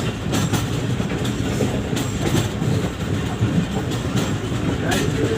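Moving passenger train: a steady low rumble from the wheels, with irregular clacks as they run over rail joints.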